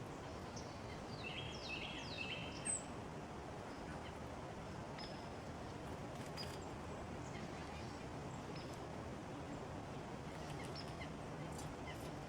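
Small songbirds calling: a cluster of short, falling call notes from about one to three seconds in, a sharp high chip just before three seconds, then scattered faint chips over a steady outdoor background hiss.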